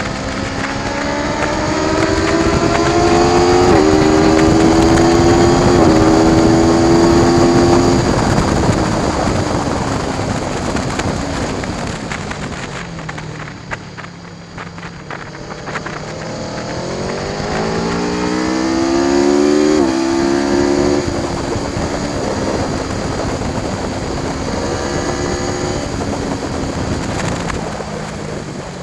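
Aprilia Tuono V4 1100 Factory's V4 engine pulling hard through the gears: the pitch climbs and drops back at each upshift, then falls away as the bike slows about halfway through, and climbs again through more upshifts. A steady wind rush runs underneath.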